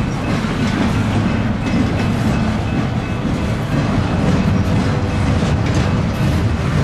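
Intermodal container cars of a long freight train rolling past, a loud, steady rumble of steel wheels on the rails.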